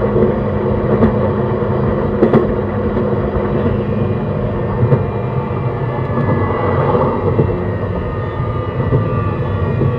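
JR East E131-600 series electric train running along the track: steady wheel-and-rail rumble with a few short clacks from the rails. In the second half a faint whine from the Hitachi hybrid SiC inverter and traction motors rises in pitch.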